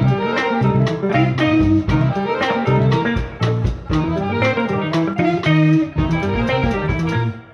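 A live jazz-funk band playing, with guitar to the fore over bass and a steady drum beat. The music fades out near the end.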